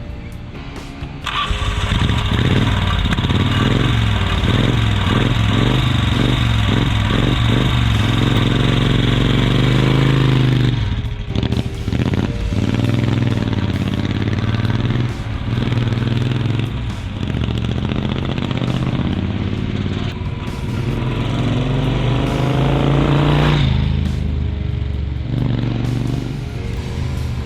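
Moto Guzzi V-twin motorcycle engine starting about a second in and running, its pitch rising and falling as the throttle is worked, just after a carburettor rejet, choke change, valve adjustment and head retorque.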